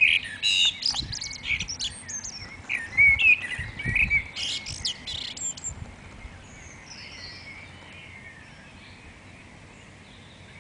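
Dawn chorus of songbirds: busy, loud whistled and warbled phrases for the first half, thinning to faint distant song for the last few seconds, with a loud bird starting again right at the end.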